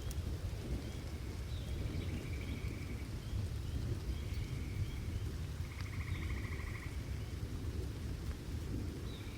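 Rain with a low, rolling rumble of thunder, with repeated high chirps and short buzzy trills from wildlife over it.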